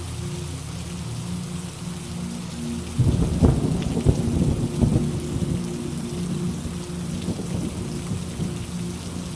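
Steady rain with a clap of thunder breaking in about three seconds in, crackling and rumbling loudly for a couple of seconds before dying back into the rain.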